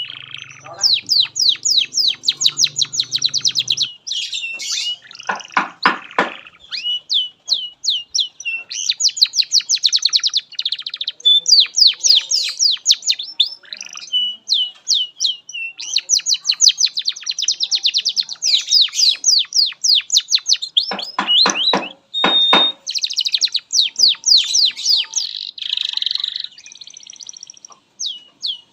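Domestic canary singing a long, continuous song of rapid trills and repeated chirps, with brief lower rattling rolls twice.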